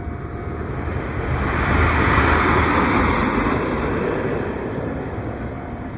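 Kintetsu electric train running along the line, a rushing rumble that swells to its loudest about two seconds in and then fades away.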